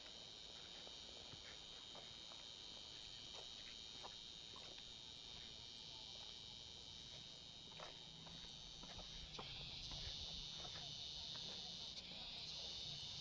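Faint, steady high-pitched chirring of insects, growing a little louder about nine seconds in, with a few soft clicks.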